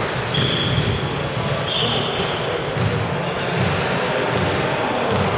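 Squash rally: the ball cracks off racquets and walls several times, and court shoes squeak briefly twice on the floor, over a constant murmur of background voices.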